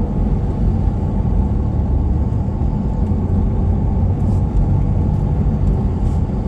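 Steady engine and road rumble of a moving vehicle, heard from inside the cabin, even and unchanging with most of its weight in the low end.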